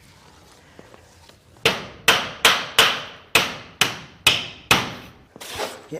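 A hammer driving a nail through a fibre-cement weatherboard into the timber frame: eight sharp, ringing blows at about two or three a second, starting about a second and a half in, then a softer knock near the end.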